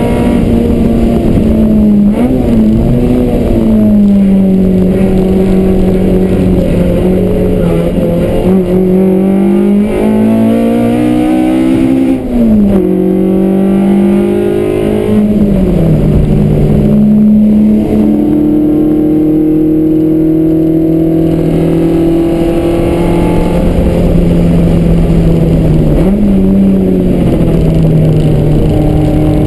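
Toyota AE86's engine driven hard, heard from inside the cabin: a loud, steady drone whose pitch sags and climbs again several times, with sharp drops about two and a half seconds in, about twelve seconds in, about fifteen seconds in and about twenty-six seconds in.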